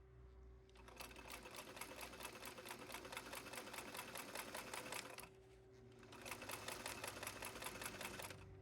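Sewing machine stitching in two runs of rapid, even stitches with a short pause about five seconds in, over a steady hum.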